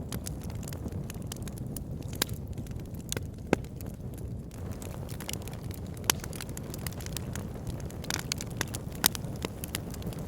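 Wood fire burning in a log burner: a steady low rumble with scattered sharp crackles and pops, three louder pops a few seconds apart.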